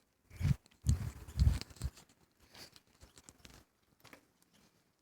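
Footsteps crunching on a dry trail: three heavier steps in the first two seconds, then fainter, lighter ones.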